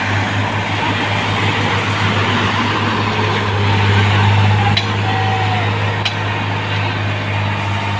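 Heavy diesel engine of a railway track-renewal machine running steadily with a deep hum, with two sharp metallic clicks about five and six seconds in.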